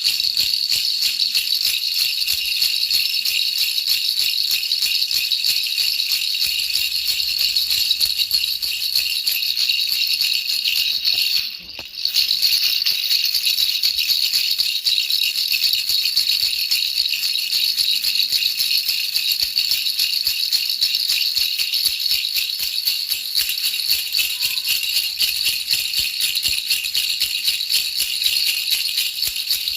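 Baby rattle shaken continuously, a fast dense rattling that dips briefly about twelve seconds in, played as white noise for lulling a baby to sleep.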